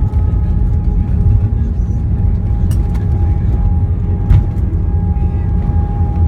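Airbus A321 cabin noise on the ground after landing: a steady low rumble with a constant whine from the jet engines, and two sharp clicks about three and four seconds in.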